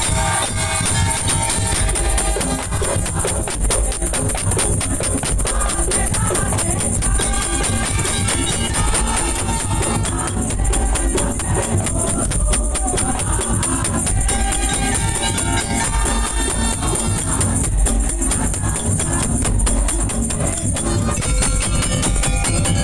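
Madurese daul music: a loud percussion ensemble of drums with jingling, rattling percussion over heavy bass, played at a fast, dense beat.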